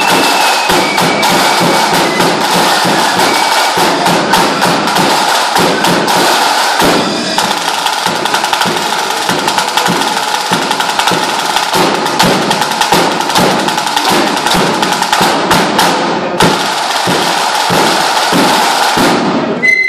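Lambeg drumming: the big drum beaten with canes in a fast, unbroken hail of sharp cracks at a steady loud level, stopping suddenly near the end.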